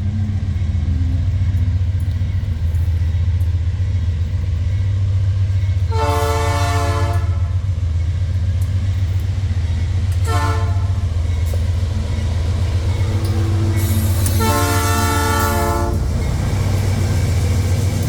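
Diesel freight locomotive running with a steady low drone while its air horn sounds three times: a blast about six seconds in, a short toot around ten seconds, and another blast lasting about a second and a half near fifteen seconds.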